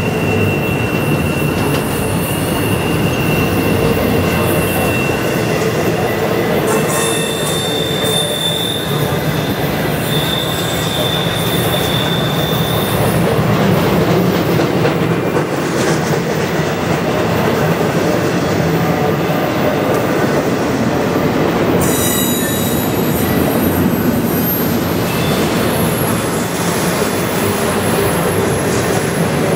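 Intermodal freight train's container well cars rolling past: a steady rumble of steel wheels on rail. High wheel squeal comes and goes over it, a thin whine in the first few seconds and a higher one from about seven to thirteen seconds in.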